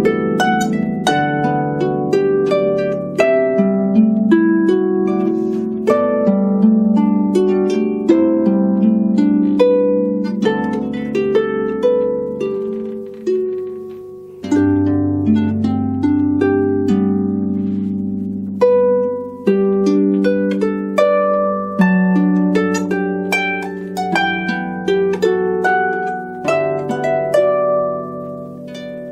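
Solo harp playing: plucked melody notes that ring and fade over lower bass strings. About halfway through, the playing thins out and then resumes with a deep bass note.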